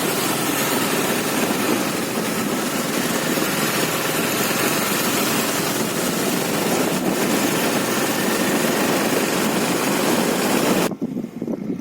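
Motorcycle running on the move, with a loud, steady rush of wind over the microphone. About eleven seconds in it cuts off abruptly to a quieter, lower rumble.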